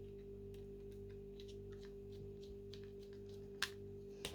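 Faint small clicks and ticks of a small flathead screwdriver turning a tiny screw into a plastic car key fob, with two sharper clicks near the end, over a steady low hum.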